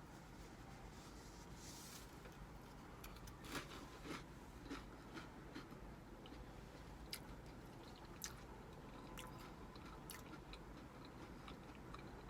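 Quiet eating sounds: a person chewing, with short, soft mouth clicks and smacks scattered through it, over a faint low steady background hum.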